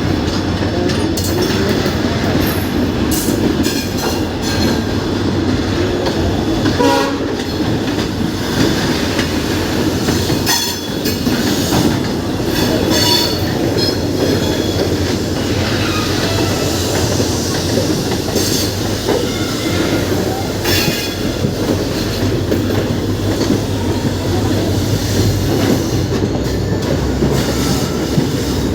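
Passenger train hauled by twin WDP4D diesel locomotives running on the track at speed: a steady heavy rumble with a low hum, and wheels clicking over rail joints again and again.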